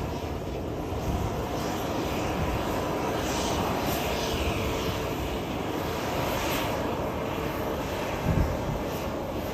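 Jet airliner engines running, a steady rushing noise with a faint held whine mixed in, and a brief low thump near the end.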